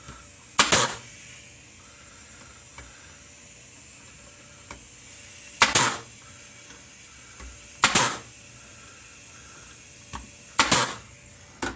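Brad nailer driving 1-inch brads into cedar picket boards, firing four times, each shot a sharp snap with a short hiss, spaced a few seconds apart.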